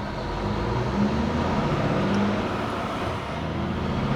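Truck engine and road noise heard inside the cab: a steady low drone whose pitch shifts a little.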